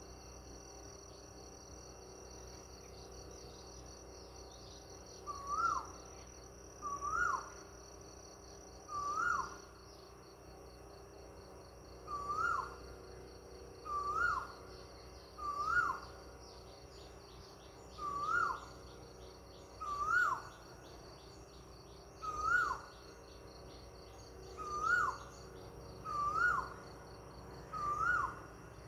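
A bird calling about a dozen times, each call a short note that rises and then drops sharply, repeated every one and a half to two and a half seconds from about five seconds in. Beneath it runs a steady high chirring of insects.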